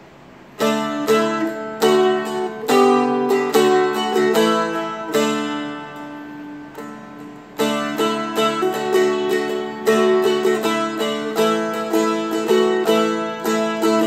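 Seagull Merlin M4, a four-string fretted dulcimer-style instrument, being picked: a single-note melody over steady ringing drone strings. Picking starts about half a second in, the notes are left to ring for a moment around the middle, then the melody picks up again.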